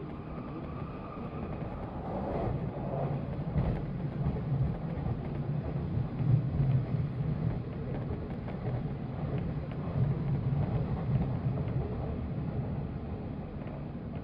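JR 185 series electric train running, with a steady low rumble of wheels on rail and running gear that swells louder a couple of times.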